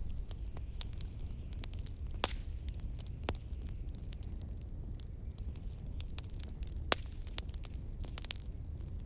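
Wood fire crackling in a fireplace, with irregular sharp pops, a few of them louder, over a steady low rumble of blizzard wind.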